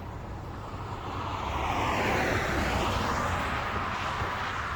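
A passing engine swells to its loudest about two seconds in, then fades, its rushing noise sliding down in pitch as it goes by.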